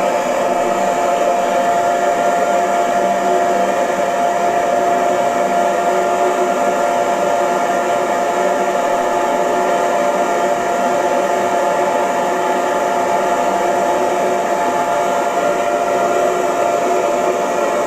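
Hair dryer running steadily, an even rushing noise with a constant whine in it.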